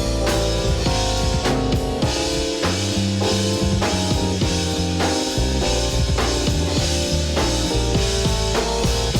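Live band of keyboards, electric bass and drum kit playing an instrumental groove, with steady drum hits under a walking bass line and held keyboard chords.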